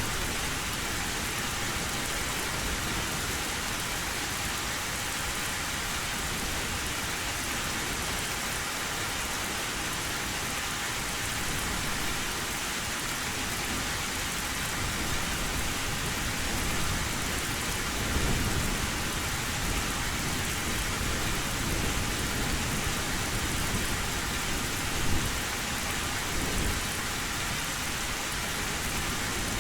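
Heavy rain falling steadily on an old metal roof, with low thunder rumbling through the second half and briefly louder about 18 and 25 seconds in.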